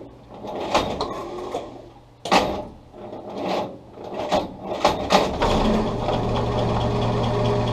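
A few sharp knocks and clatters, then, a little past halfway, the starter motor cranking the Kaiser L-134 four-cylinder engine steadily for about three seconds without it catching.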